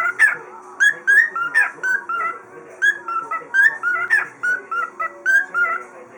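Cockatiel singing: a quick run of short, clear whistled notes that rise and fall, strung into a phrase that repeats.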